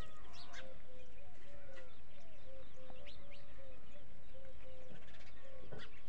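Birds calling: a run of short low notes repeated about three times a second, with higher chirps over them.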